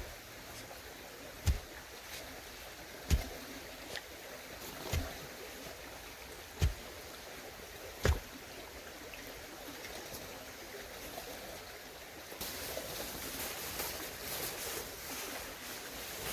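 Regular dull thuds, one about every one and a half seconds, over a low rushing background. About twelve seconds in, a louder, steady rushing sound sets in.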